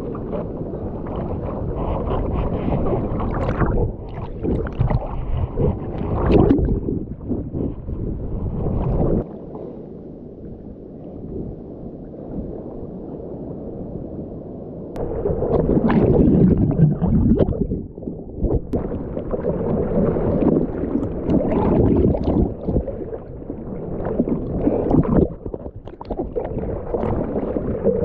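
Ocean water splashing and sloshing around a swimmer and the camera in the surf. About a third of the way in, the sound goes quieter and duller for several seconds, then the loud splashing returns.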